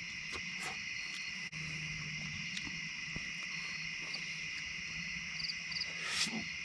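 Night insect chorus of crickets trilling steadily at a high pitch, with a few faint clicks and one louder short crackle near the end.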